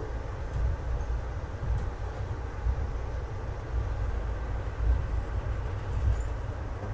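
Passenger train running along the track, heard from inside the car as a steady low rumble.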